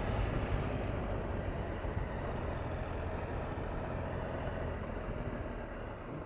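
Triumph Tiger 1200's three-cylinder engine running under way, with wind and road rush. The sound eases off gradually as the bike slows.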